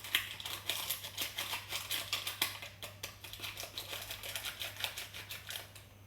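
A quick, irregular run of small dry clicks and taps, several a second, from ingredients and a utensil being worked in a mixing bowl; it thins out near the end.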